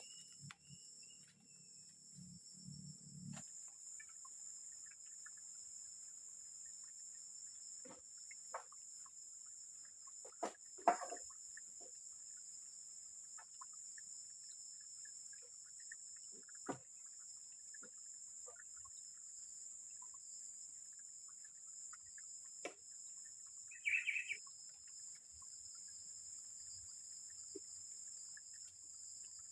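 Forest ambience: a steady high-pitched insect drone, with scattered small ticks and knocks. A louder knock comes about 11 seconds in, and a short bird call about 24 seconds in.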